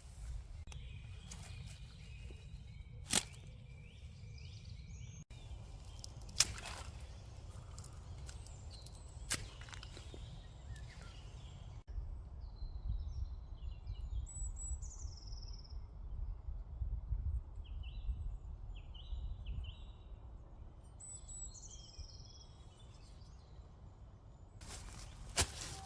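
Outdoor ambience: wind rumbling on the microphone, with small birds chirping in short repeated calls. A few sharp clicks or snaps come in the first half.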